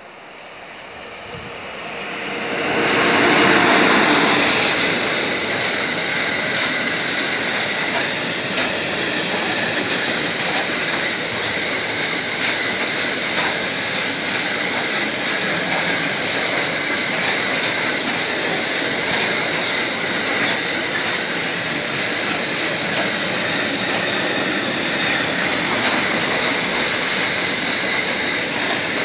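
Freight train of double-deck car-carrier wagons passing close by: the noise swells over the first few seconds as the locomotive arrives, is loudest about three to four seconds in, then settles into a steady rolling roar of wheels on rail as the wagons go past.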